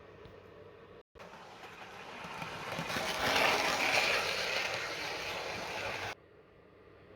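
Hornby Class 47 OO gauge model locomotive running past on its track, motor and wheel noise. It starts about a second in, grows louder to a peak about three to four seconds in, eases, and cuts off abruptly about six seconds in.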